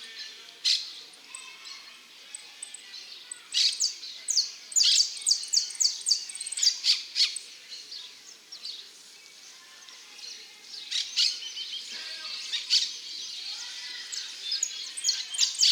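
Male saffron finch singing: phrases of quick, high, sharp chirping notes, with a quieter gap about halfway through before it sings again.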